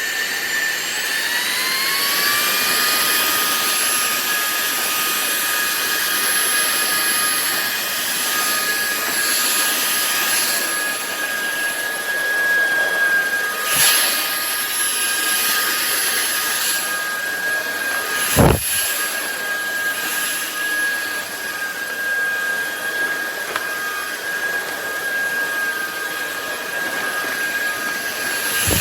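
Cordless stick vacuum cleaner's motor running with a high, steady whine that rises in pitch over the first couple of seconds as it spins up, then holds. A sharp click about fourteen seconds in and a louder knock about eighteen seconds in.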